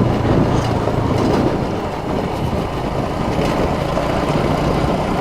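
A TVS Star City Plus 110 cc single-cylinder four-stroke motorcycle is running while being ridden, heard as a steady rush of wind and road noise on the microphone with the engine's low hum underneath.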